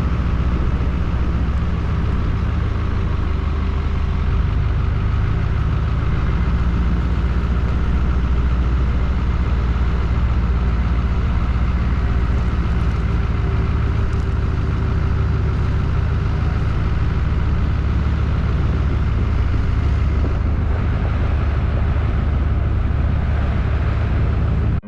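Pickup truck driving, a steady low engine and road rumble with no change in pace.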